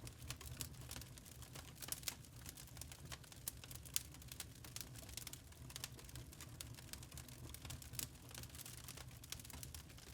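Wood fire burning in a fireplace, with a steady low rumble and many irregular crackles and snaps, one louder pop about four seconds in.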